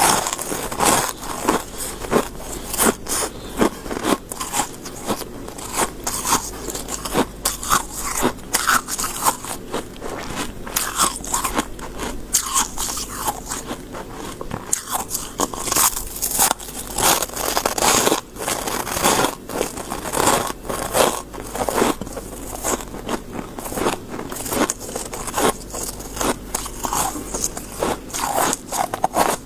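Close-miked biting and chewing of soft white freezer frost: a dense, irregular run of crisp crunches, several a second.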